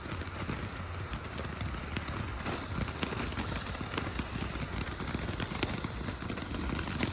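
Ground fountain firework spraying sparks, a steady crackling hiss scattered with small pops.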